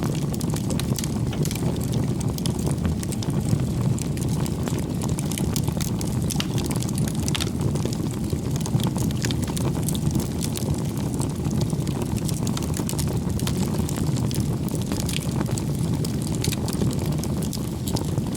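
Wood campfire burning, with a steady low rush from the flames and frequent small, irregular crackles from the burning logs.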